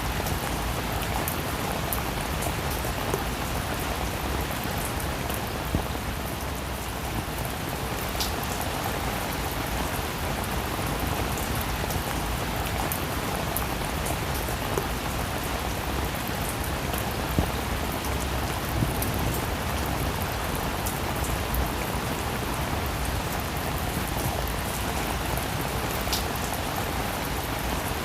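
Steady rain falling, with scattered louder drops ticking on a surface.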